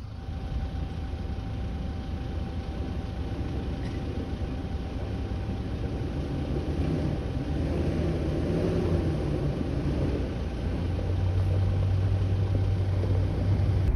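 Jeep Wrangler engine working as it crawls up a rutted dirt track toward the listener, growing steadily louder, with the deep rumble strongest near the end.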